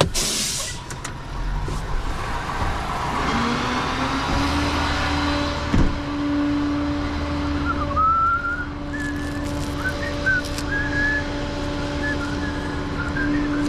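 Tow truck running with its bed hydraulics engaged: a steady drone that rises in pitch about three seconds in and then holds. Sharp knocks at the start and about six seconds in, and short high squeaks in the second half.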